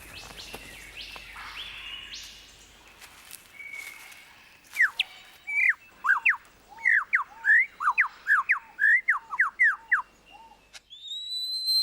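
Superb lyrebird singing: after a few seconds of faint forest bird calls comes a fast run of loud, sharp whistled notes sweeping up and down, about two or three a second, and near the end a long rising whistle.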